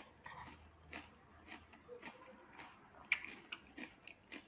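Quiet chewing of a raw vegetable salad: soft, scattered crunches and wet mouth clicks, with a sharper crunch about three seconds in.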